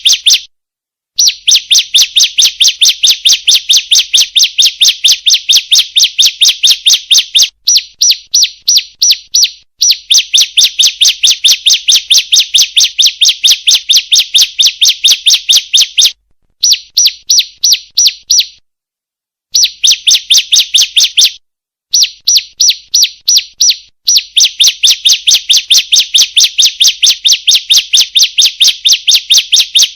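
Female ciblek (prinia) call used as a lure for caged birds: a fast, even series of high chirps, about six a second, in runs of a few seconds broken by short, abrupt silences.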